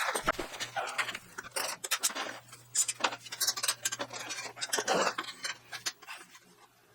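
Irregular clinks and knocks of metal tools and hardware being handled, with a faint low hum underneath.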